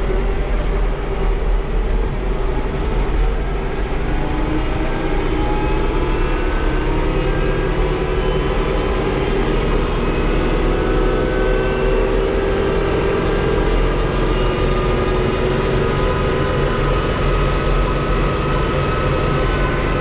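Tractor engine running steadily while driving along the road, its pitch drifting slowly up and down with engine speed.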